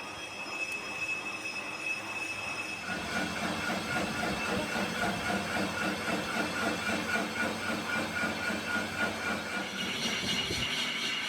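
Machine tool working a metal cylinder sleeve: a high steady metallic squeal, then from about three seconds in a fast, rhythmic pulsing churn under a lower hum, with the high squeal rising again near the end.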